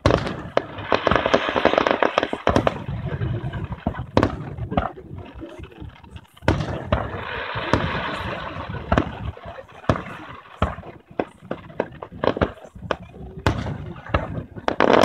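Aerial fireworks bursting and crackling: a loud burst opens a dense flurry of crackles, a second flurry follows about six and a half seconds in, and single sharp cracks go off between and after.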